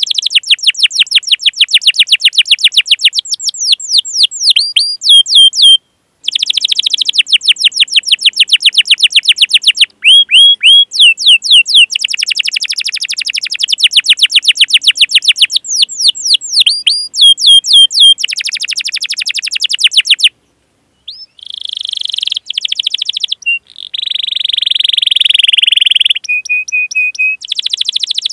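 Canary singing: fast rolled trills of rapid repeated chirps, many notes a second, in long phrases broken by brief pauses, with a harsher buzzing stretch near the end.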